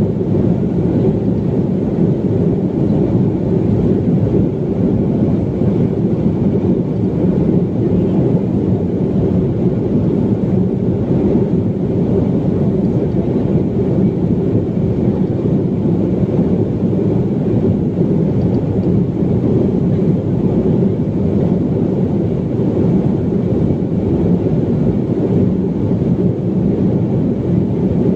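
Steady low rumble of a BAe 146 jet airliner's four turbofan engines and airflow, unchanging throughout.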